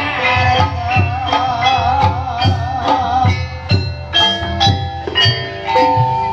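Live gamelan music accompanying ebeg horse-trance dancing: regular hand-drum strokes under bright struck metal-keyed notes, with a wavering held melody line over the first half that drops out a little past the middle.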